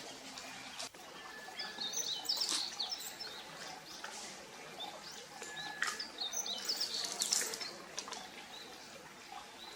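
Small birds chirping in clusters of quick high calls over a steady faint outdoor background, with a few sharp cracks in between.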